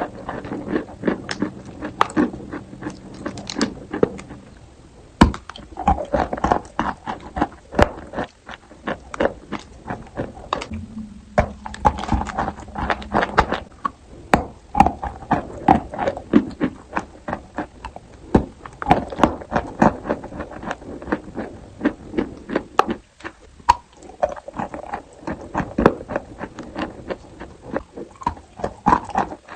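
Close-miked crunching of chalk being bitten and chewed: a dense, irregular run of sharp cracks and crunches, several a second, with brief lulls.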